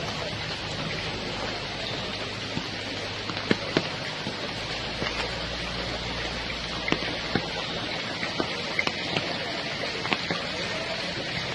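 Steady rain with scattered sharp drop ticks, over a faint low hum that fades out about eight seconds in.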